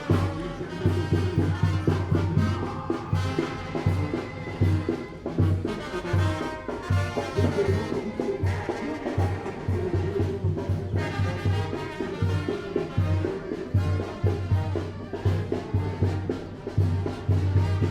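Tamborazo brass band playing: trumpets and trombones over a steady low bass drum beat.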